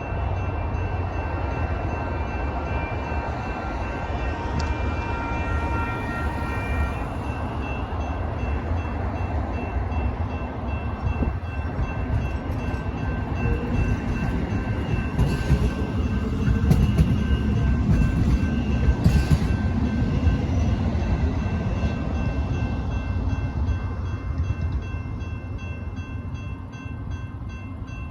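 Sacramento RT CAF light rail train passing over a grade crossing, its wheels and motors rumbling and loudest about 15 to 20 seconds in, while the crossing's warning bell keeps ringing.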